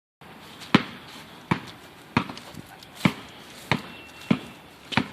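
A basketball being dribbled: seven sharp bounces at a steady pace, about one every two-thirds of a second.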